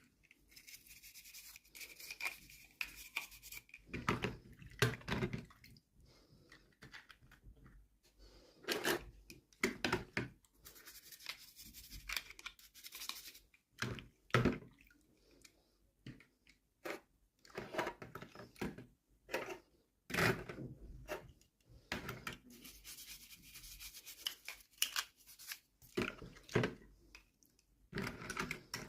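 Hands handling and opening toy packaging: irregular rustling and rubbing with small knocks and taps.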